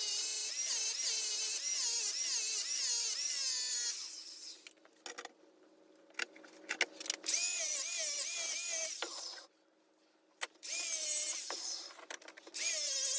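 Small electric motors whining, their pitch wavering and gliding up and down, stopping and starting twice with short silences between.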